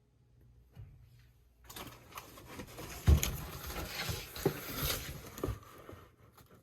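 Rustling and handling noise with several knocks, the loudest about three seconds in, from things being moved by hand.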